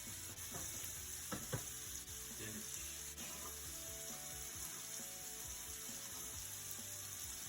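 Ground beef frying in a pan, a steady sizzle, with a couple of sharp clicks about a second and a half in as it is stirred.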